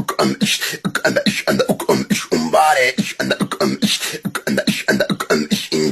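A person's voice beatboxing: rapid percussive mouth sounds mixed with short pitched vocal bits.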